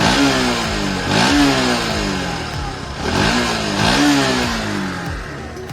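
Bajaj Pulsar NS125's single-cylinder engine revved in short throttle blips through its exhaust, each rising quickly and falling back to idle, about four times with a pause in the middle.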